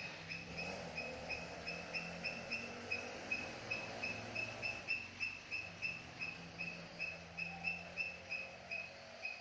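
A bird calling in a fast, even run of short high chirps, about three a second, over a faint low hum.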